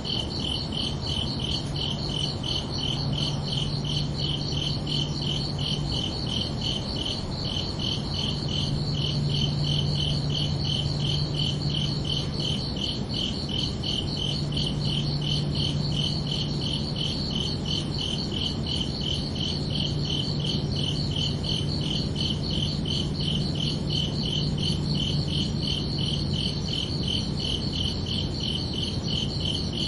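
Crickets chirping in a steady, evenly spaced rhythm of high pulses. A low hum comes and goes underneath.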